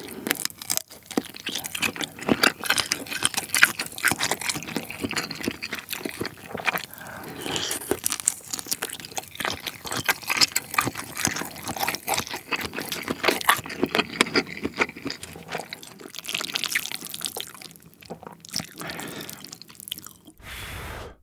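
Close-miked chewing of shrimp and black-bean-sauce noodles: wet mouth smacking with many small irregular clicks and crackles.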